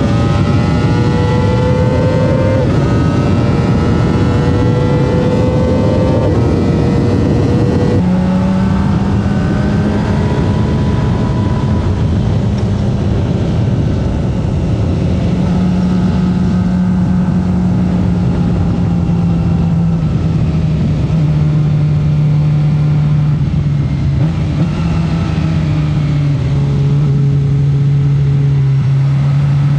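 Kawasaki ZX25R's high-revving 250 cc inline-four accelerating hard, its pitch climbing and dropping back at two upshifts. About eight seconds in the rider eases off, and the engine carries on at much lower revs with a steady note that sinks slowly, under steady wind rush.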